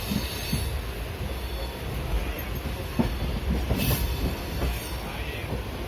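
Passenger train coach running along the line, heard from inside: a steady low rumble of the wheels with scattered clicks and knocks over the rail joints, and a brief high wheel squeal near the end.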